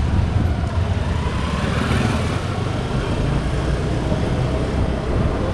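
Steady road traffic noise: vehicle engines and tyres making a continuous low rumble.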